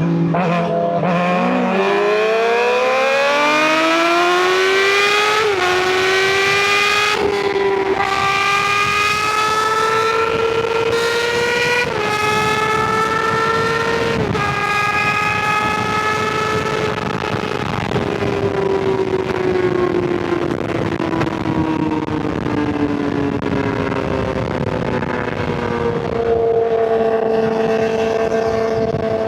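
Suzuki GSX-R600 inline-four through an M4 slip-on exhaust, pulling hard and upshifting through several gears, with the note dropping at each shift. It then eases off, the pitch falling slowly before it settles to a steady cruise near the end.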